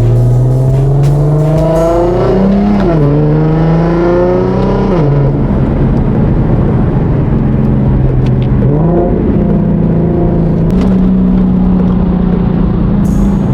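Infiniti Q50's VQ V6 engine accelerating through the gears: its pitch climbs, then drops sharply at upshifts about two and a half and five seconds in. It then settles into a steady cruise, with a brief rise in revs near nine seconds.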